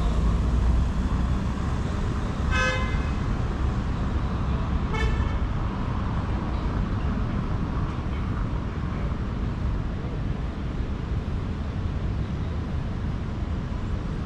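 Steady city street traffic rumble, with two short car horn toots: one about two and a half seconds in and another about five seconds in.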